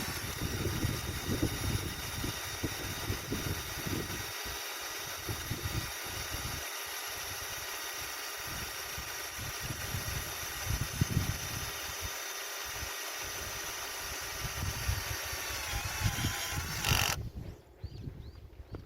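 A metalworking power tool running steadily with a hissing, whining noise, cutting off suddenly about 17 seconds in.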